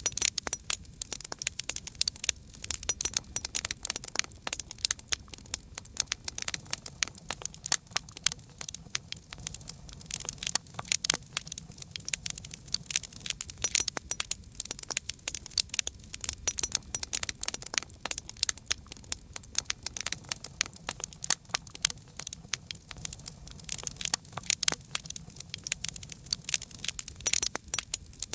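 Wood fire crackling steadily, with dense irregular pops and snaps over a faint low rumble of the flames.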